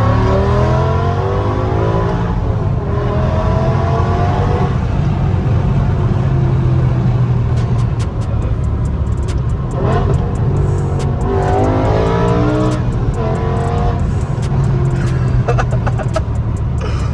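Straight-piped BMW E60 M5's naturally aspirated V10 running under way with the exhaust valves open. It revs up with rising pitch near the start and again about ten seconds in, holding a steady drone in between, with scattered sharp clicks in the second half.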